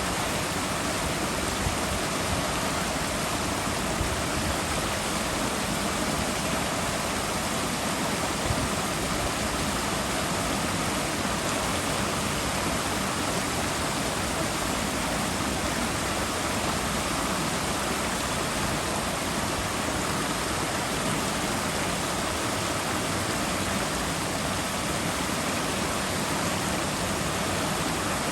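Running water rushing steadily, an even, unbroken noise with no change in level.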